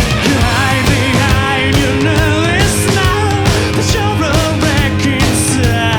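Live band playing a rock song with a steady beat, with a wavering lead melody over the drums, bass and guitars.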